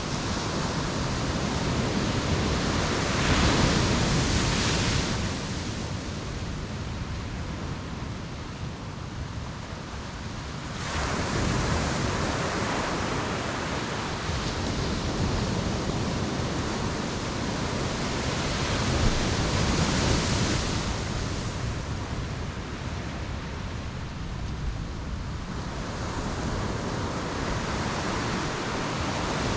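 Ocean surf: waves breaking and washing up the shore one after another, with three louder surges spaced roughly eight seconds apart.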